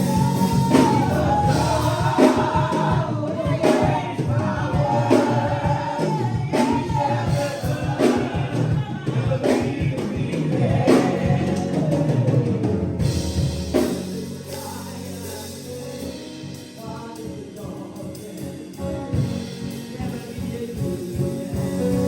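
Gospel choir singing with a band and a steady drum-kit beat. About thirteen seconds in, the voices and drums drop away and quieter, sustained instrumental music carries on.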